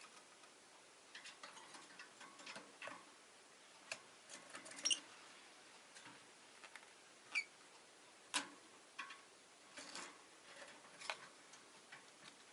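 Rosy-faced lovebirds making faint, scattered clicks and taps, with a few short chirps; the clearest chirps come about five and about seven seconds in.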